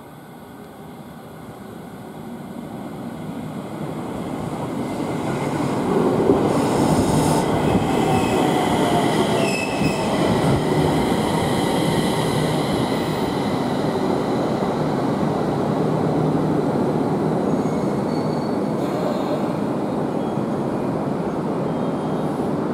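JR East 701 series electric train pulling into the platform and braking to a stop. It grows louder over the first six seconds; from about seven to ten seconds in there is brake and wheel squeal and a whine falling in pitch as it slows. After that comes a steady running noise from the train standing at the platform.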